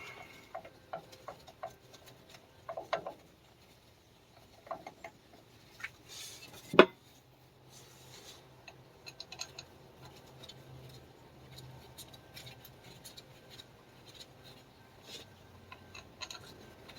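Scattered light clinks and taps of hand tools and metal parts being handled, with one sharp metallic knock about seven seconds in. A faint steady hum runs through the later part.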